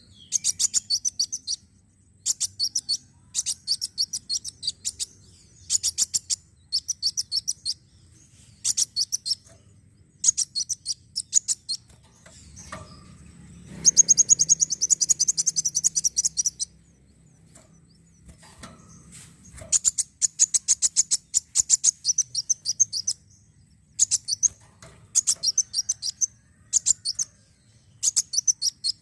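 Kolibri wulung sunbird song as a lure recording: short bursts of rapid, high, sharp chirps repeated about once a second. In the middle comes a longer unbroken twitter of about three seconds.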